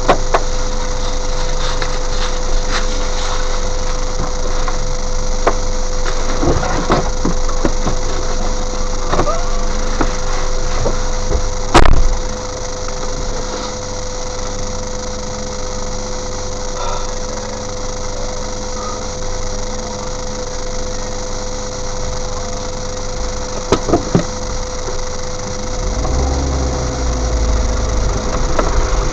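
Vehicle engine idling, heard from inside the cab, under a steady hum, with scattered knocks and one loud knock about twelve seconds in. Near the end the engine pulls away with a deeper, louder rumble.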